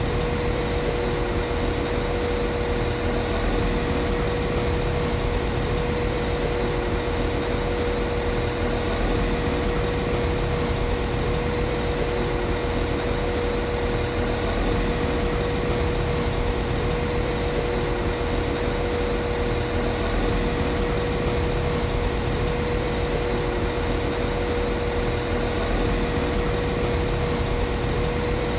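Underfloor diesel engine of a Class 195 CAF Civity diesel multiple unit idling steadily, with a constant hum in the mid range over the low engine rumble.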